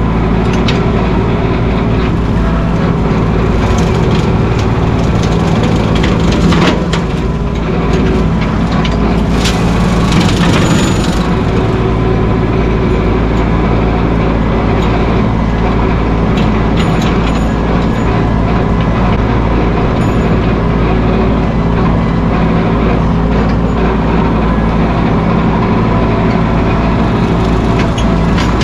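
Mahindra 1626 sub-compact tractor's diesel engine running steadily under work, with a few knocks and crackles about a third of the way in.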